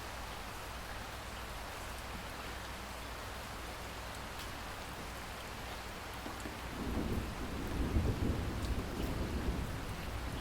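Steady rain falling, with faint drop ticks. About two-thirds of the way in, a low roll of thunder rises, peaks briefly and then eases off under the rain.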